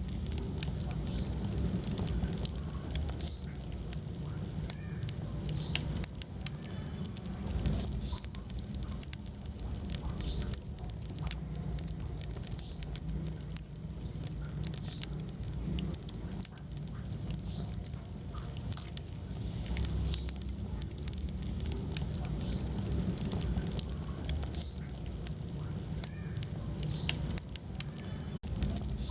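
Wood fire burning in a fireplace: a steady low rumble of flames under frequent sharp crackles and pops from the burning logs.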